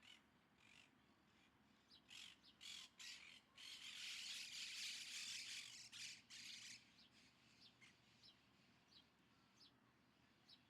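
Bird squawking: a few short harsh calls, then a longer rasping squawk lasting about three seconds, followed by faint, thin chirps.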